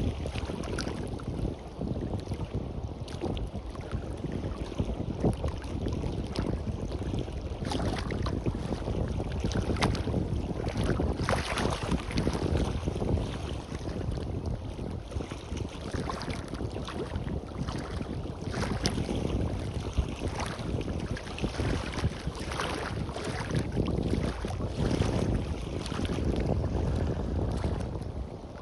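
Sea waves washing on a beach, with wind buffeting the microphone in an uneven low rumble.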